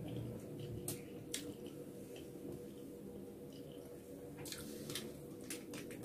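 Close-miked eating sounds of a person chewing pansit canton noodles eaten by hand: soft wet chewing with several sharp mouth clicks and smacks, over a faint steady hum.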